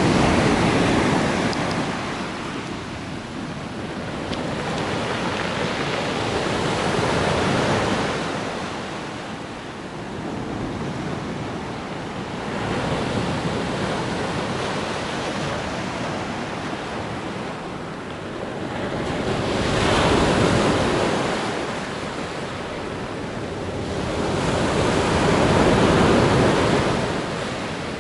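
Sea surf on a stony shore: waves breaking and washing in about every six seconds, each one swelling and then fading back.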